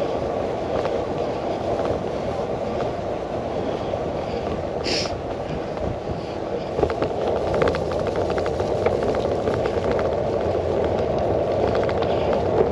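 Bicycle riding along a rough track, heard through a handlebar-mounted action camera: a steady rumble of tyres and wind, with a brief hiss about five seconds in and rattling clicks that grow busier from about halfway.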